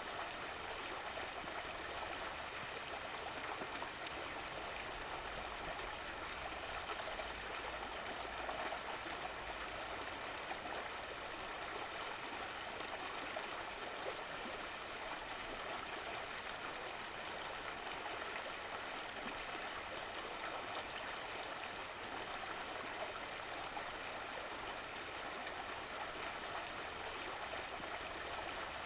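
A stream of running water flowing and burbling steadily.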